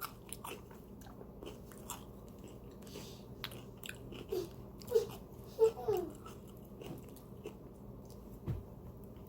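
Crunching and chewing of a cream-cheese-stuffed jalapeño coated in crushed Doritos chips: many small, sharp crunches scattered through. A few short voice sounds come in about halfway through.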